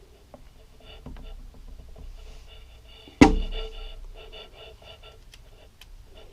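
Metal engine parts handled on a workbench: a few light clicks, then one sharp metallic knock about three seconds in that rings briefly.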